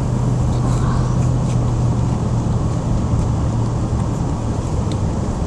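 Steady low hum of engine and road noise inside a moving car's cabin.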